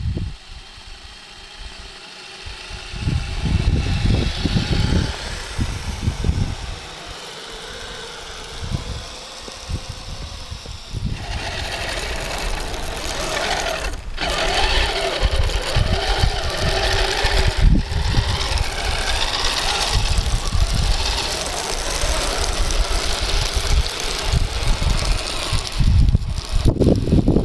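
Radio-controlled model vehicle driving on a trail, its electric motor and gears whining in a wavering pitch that becomes louder and busier about a third of the way in, over irregular low rumbles and thumps.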